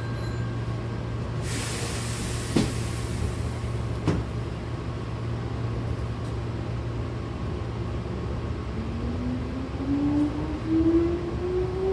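Inside a Hankyu commuter train car: a steady low hum, a burst of air hiss and two clunks, then from about nine seconds in the traction motors' whine rising steadily in pitch as the train accelerates away from the station.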